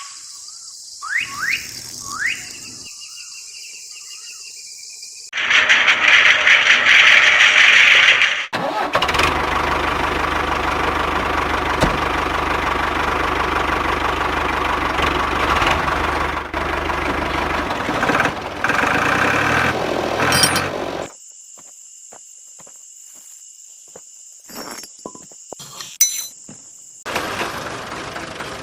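An engine running, coming in loud about five seconds in and running steadily with a low hum until about twenty-one seconds in. It gives way to a quieter stretch with clicks and a high steady tone, and engine-like noise returns near the end.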